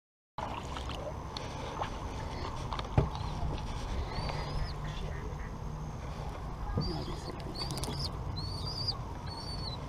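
A small bird giving a run of short, high, evenly spaced chirps, about six in the second half, over steady outdoor background noise. A sharp knock about three seconds in is the loudest single sound.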